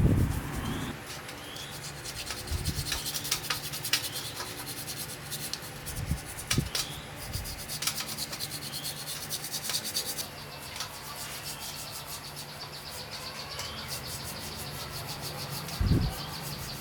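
Hand abrasive work on a part: quick, repeated rubbing and scraping strokes, with birds chirping in the background.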